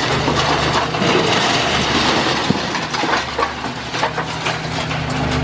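Building debris crunching and clattering down as a Cat high-reach demolition excavator pulls the structure apart: a dense string of cracks and knocks over the steady run of the machine's diesel engine.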